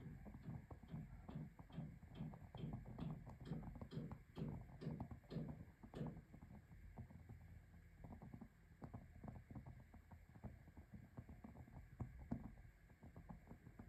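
Mini fireplace fire crackling and popping over a low rumble, with a quick run of evenly spaced pops in the first half and scattered fainter crackles after.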